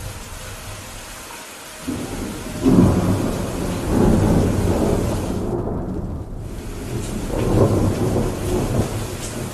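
Steady heavy rain with a long roll of thunder that begins about two seconds in, rumbles low and swells several times before fading near the end.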